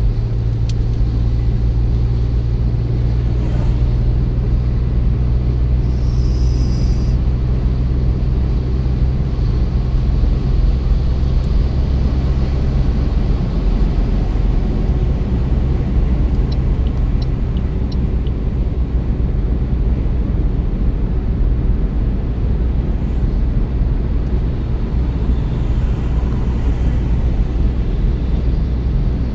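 Road noise of a moving car heard inside the cabin: a steady low rumble of tyres and engine. A low drone runs under it for the first half, then drops away, leaving the rougher tyre rumble.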